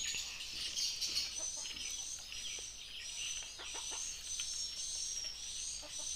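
A bird calling a short, high, slightly rising note over and over, about twice a second, with a few faint clicks alongside.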